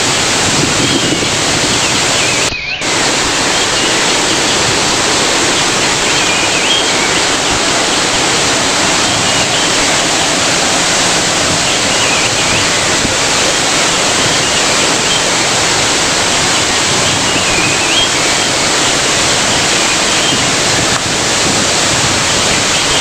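Waterfall: a steady, loud rush of falling water, with a brief dip about two and a half seconds in and a few faint high chirps now and then.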